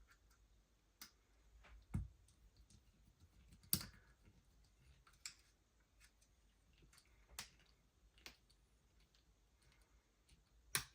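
Sparse light clicks and taps of small metal parts and a screwdriver being handled while a sight screw on an airsoft pistol slide is tightened down on a half-millimetre shim. A duller knock comes about two seconds in and sharper clicks near four seconds and near the end.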